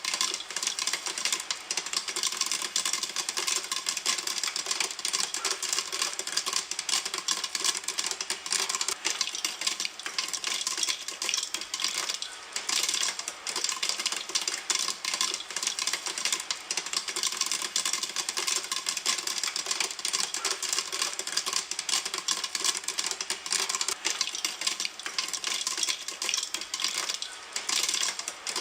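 Popcorn kernels popping in a pan: a dense, continuous stream of rapid sharp pops and clicks.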